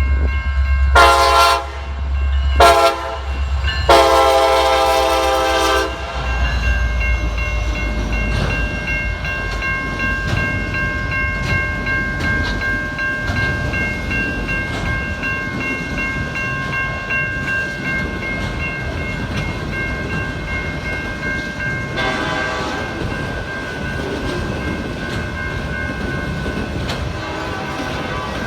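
Norfolk Southern diesel locomotive's air horn sounding for the grade crossing: two short blasts, then a long one, over the engine's low rumble. A freight train of auto rack cars then rolls past with a steady rumble, wheel clatter and a high steady ringing tone.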